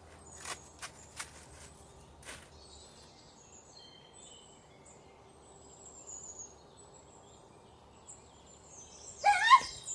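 Small birds chirping faintly in a quiet garden, with a few sharp clicks in the first couple of seconds and a short, loud pitched call near the end.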